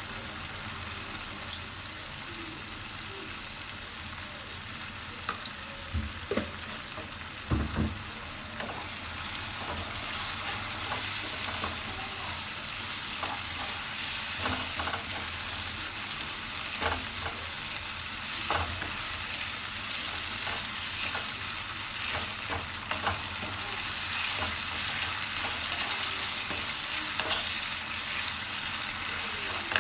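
Ginger-garlic paste sizzling steadily in hot oil with onion-tomato masala in a pan, being fried to cook off its raw smell. It is stirred, with a few knocks of the stirring spoon against the pan.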